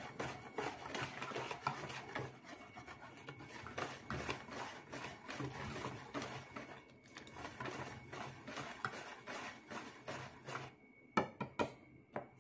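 Wire whisk stirring a dry mix of flour and brown sugar in a plastic bowl: a quick, continuous scratchy rubbing. It stops near the end, and a few sharp taps follow.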